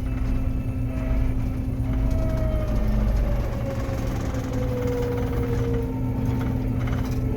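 John Deere 9500 combine's diesel engine running steadily with a low hum as the machine drives into the field, heard from the cab. A fainter whine slowly drops in pitch through the middle.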